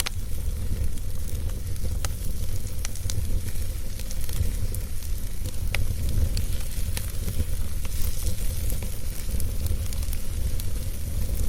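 Wood fire burning: a steady low rumble with a light hiss, broken by scattered sharp crackles and pops from the burning wood, one of the clearest about six seconds in.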